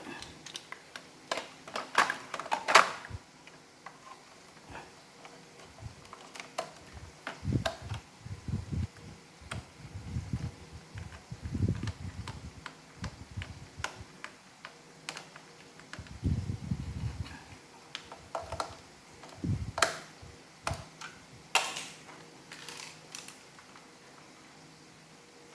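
Irregular plastic clicks, taps and knocks of robot vacuum parts being handled and snapped together during reassembly of an iRobot Roomba, with a few dull thuds.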